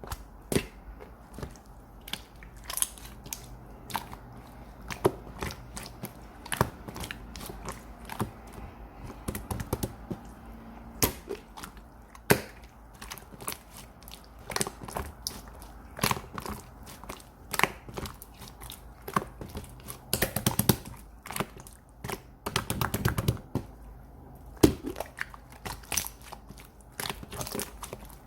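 Irregular sharp taps, clicks and crunching or crinkling sounds of objects being handled, over a low steady hum.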